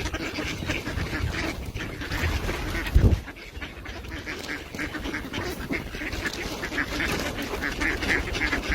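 A crowd of ducks quacking and calling close by, many short calls overlapping, with one loud thump about three seconds in.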